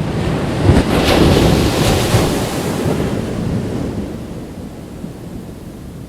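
Ocean surf breaking on a beach: a wave crashes about a second in and then washes out, fading over the next few seconds. Wind buffets the microphone underneath.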